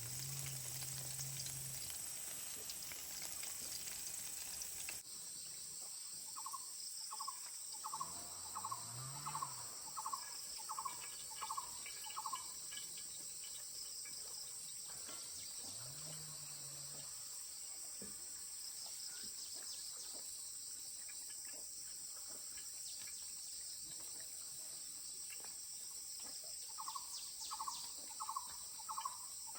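Steady high chirring of insects, with a run of about ten short, evenly repeated animal calls a few seconds in and another run of five near the end. Faint low rising tones sound twice underneath.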